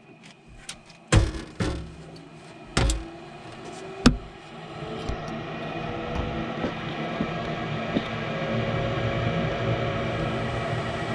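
A few sharp knocks and clicks, then the Trane S9V2 furnace's inducer motor starting up, its hum slowly rising in pitch and growing louder as it comes up to speed on a call for heat.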